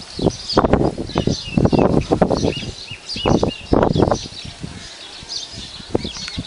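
Small birds chirping and calling in quick high notes. Over them, irregular loud low bursts of noise come close to the microphone.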